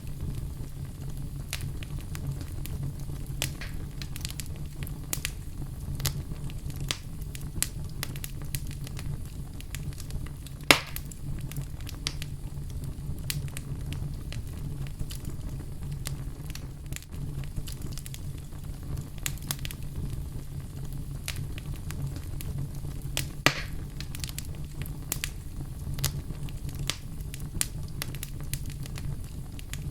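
Wood fire burning in a fireplace: a steady low rumble of flames with frequent irregular crackles and a few louder pops, the loudest about 11 seconds in and another near 23 seconds.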